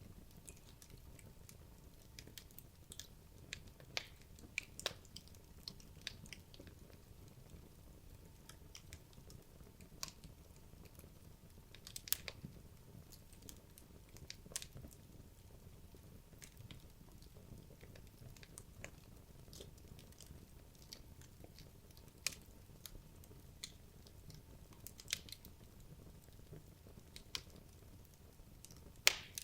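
Wood logs burning in a fireplace, crackling with scattered sharp pops at irregular intervals over a low steady hiss of the fire, the loudest pop near the end.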